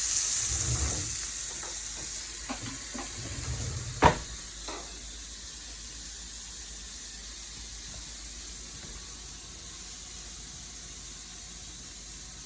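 Fish and onions sizzling as they fry in a pan, louder for the first couple of seconds and then settling to a steady fainter hiss. Several knocks of handling come over it, the loudest a sharp clack about four seconds in.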